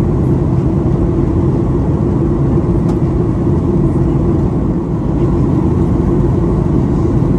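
Steady low rumble of a Boeing 737-800's CFM56 engines and airflow heard inside the passenger cabin during descent.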